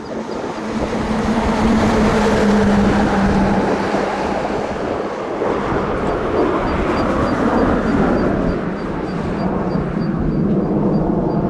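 Jet noise from Blue Impulse's Kawasaki T-4 twin-engine jet trainers flying a display pass: a loud roar that swells over the first two seconds and stays loud, with a low hum whose pitch drops slightly.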